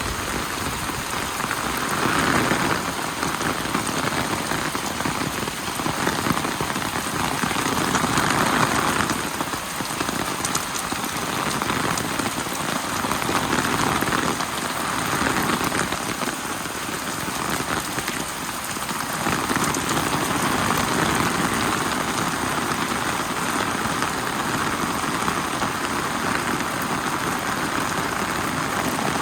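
Heavy rain falling steadily, its hiss swelling and easing every few seconds.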